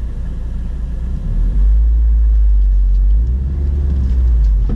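Car engine heard from inside the cabin as a manual car pulls away in first gear, a low rumble that grows louder about a second and a half in and eases slightly around three seconds.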